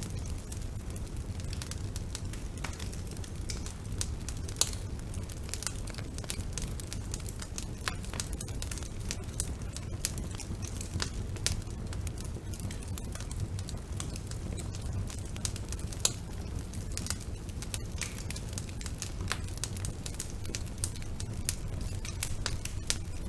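Wood fire burning in a fireplace: frequent sharp crackles and pops over a steady low rumble of the flames, with the loudest pops about four and sixteen seconds in.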